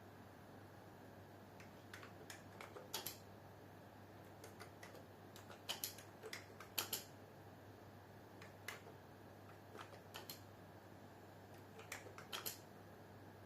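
Computer keyboard being typed on, keys clicking in short irregular clusters with pauses between them, faint over a low steady hum.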